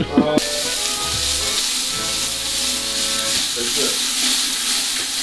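Food sizzling in a hot pan: a steady frying hiss that cuts in suddenly about half a second in and holds evenly.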